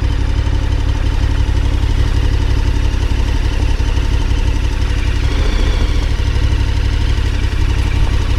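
KTM 1290 Super Adventure R's V-twin engine running steadily, its low note shifting slightly about five seconds in.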